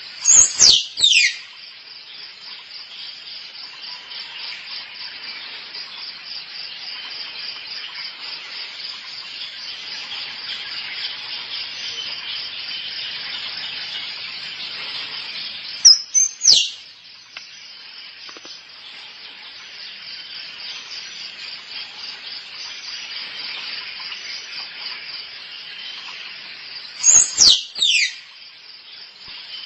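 Squirrel mating calls: three bursts of two or three sharp, high chirps, each sweeping down in pitch, about a second long each, over a steady buzzing chorus of insects.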